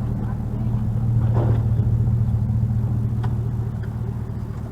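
A vehicle engine idling with a steady low hum, swelling a little between about one and three seconds in.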